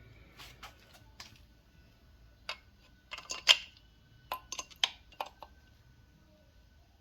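Metal parts and hand tools being handled, clinking and clanking: a few light clicks early, then a cluster of sharper clanks with a short metallic ring, the loudest about three and a half seconds in.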